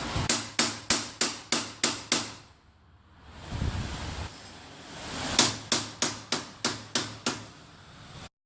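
Hammer blows in two quick, evenly spaced runs of about seven strikes each, roughly three a second, with a pause and a low rumble between them. The sound cuts off abruptly near the end.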